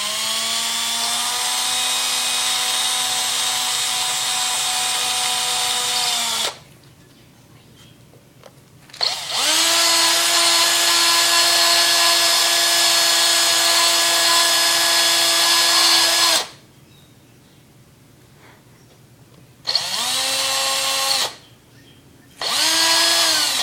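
Electric drill enlarging holes in a plastic egg, run in four bursts. Each burst is a steady whine that rises as the motor spins up. The first two last several seconds each, the second at a higher pitch, and two short bursts come near the end.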